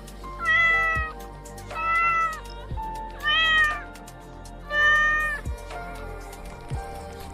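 An animal calling four times, each call drawn out for about a second, over background music with a steady beat.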